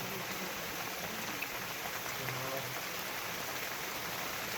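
Steady rain falling, with a faint voice in the background around the middle.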